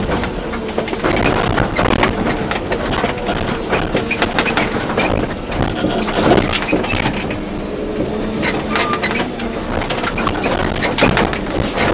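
Volvo EC240B excavator's diesel engine running under hydraulic work, with frequent clanks and knocks of the bucket digging and dumping soil.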